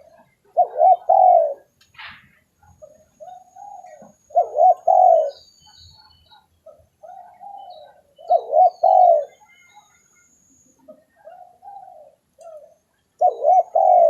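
Spotted dove cooing, a recorded lure call. Softer single coos lead into a louder two- or three-note phrase, repeating about every four seconds.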